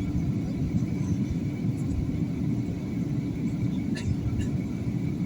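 Airliner cabin noise in flight: a steady low rumble of engines and airflow with a faint high steady tone. A couple of light clicks sound about four seconds in.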